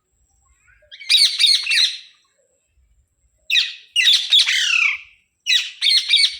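Indian ringneck parakeet squawking in three bursts of quick, repeated calls: about a second in, in the middle, and near the end.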